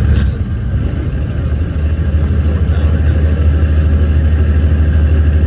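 Logging truck's diesel engine droning, heard from inside the cab. The low drone drops away shortly after the start and comes back steady about two seconds in.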